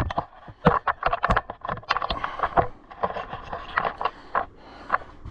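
Close handling noise: an irregular run of clicks, knocks and scrapes as the recording phone is picked up, moved and repositioned.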